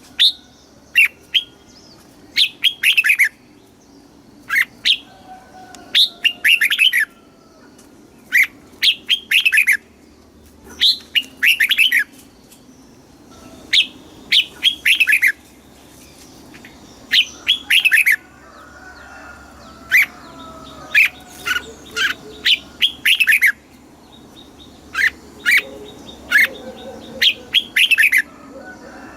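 Red-whiskered bulbul singing: short, quick phrases of bright chirping notes, repeated every second or two with brief pauses between.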